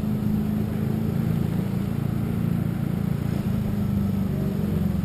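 Motor vehicle travelling steadily, its engine holding an even low hum over road noise.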